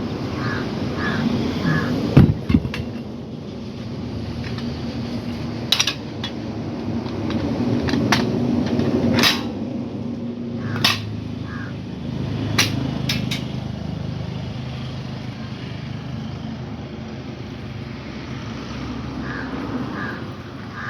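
Tyre puncture repair work: a series of sharp metal knocks and clacks, about seven spread over the stretch, over a steady low hum. A crow caws three times near the start and three times again near the end.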